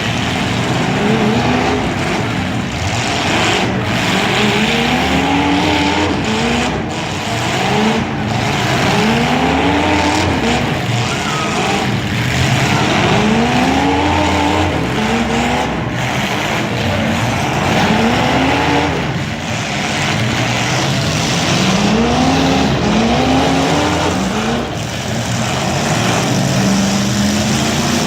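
Demolition derby cars' engines revving hard again and again, their pitch climbing and dropping every second or two, over a steady din of engine noise.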